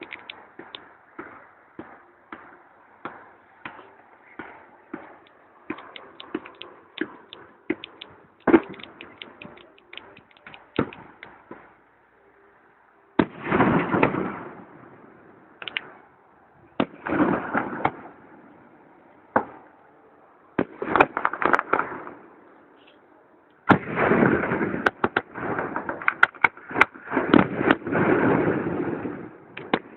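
Fireworks going off: a steady run of sharp cracks and pops, then from about halfway through a series of louder bangs, each followed by about a second of crackling, coming thick and fast near the end.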